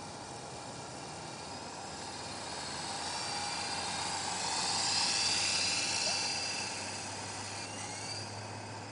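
Electric coaxial RC helicopter's motor and rotors whining, growing louder to a peak about five seconds in and then fading again.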